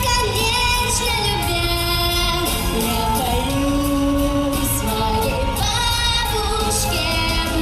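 A young girl singing a blues song over a pre-recorded backing track, holding long notes.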